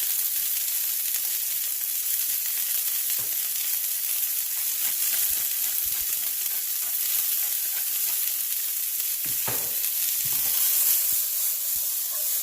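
Asparagus frying in olive oil in a pan over medium-high heat: a steady high sizzling hiss, with a few short knocks of a utensil against the pan about three-quarters of the way through.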